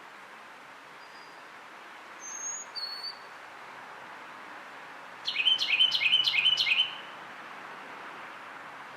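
A songbird singing: two brief high whistled notes, then a loud run of about six quick repeated slurred notes lasting about a second and a half, over a steady background hiss.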